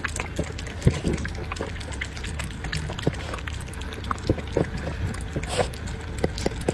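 Puppy eating from its bowl: an irregular run of short wet clicks, smacks and crunches, a few each second.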